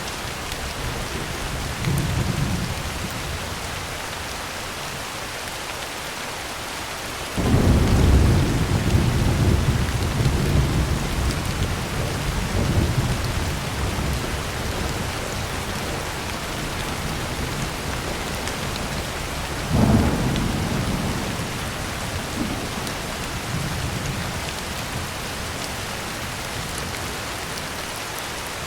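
Heavy rain falling steadily on a tin roof, with thunder. A loud peal breaks suddenly about seven seconds in and rolls on for several seconds, and another sharp one comes about twenty seconds in, with fainter rumbles between.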